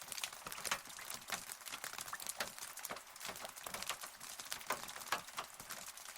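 Rain falling: a steady hiss with close, sharp drops ticking irregularly, several a second.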